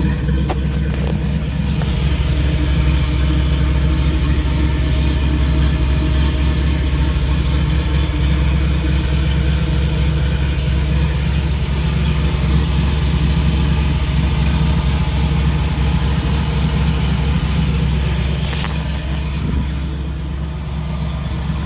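Ford 302 V8 crate engine idling steadily, breathing through headers into a single exhaust; it gets a little quieter near the end.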